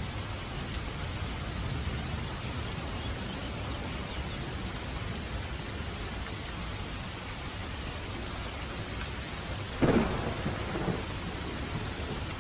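Steady rain, with a sudden clap of thunder near the end that crackles on for about a second.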